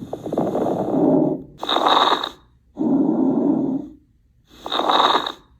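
Auscultated lung sounds with crackles: two full breaths in and out, with brief popping sounds over the breath noise. These crackles are the sign of inhaled air meeting deflated alveoli or secretions.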